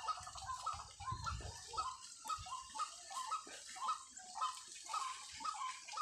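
A wild bird calling over and over in short, evenly spaced notes, about two to three calls a second.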